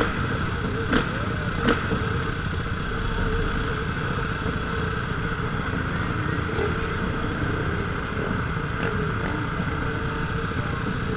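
Motocross motorcycle engine running steadily, with a couple of short sharp knocks about a second in.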